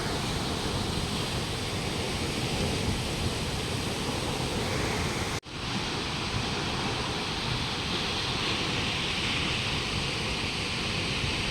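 Steady rushing roar of a waterfall's falling water, broken by a momentary dropout about five seconds in.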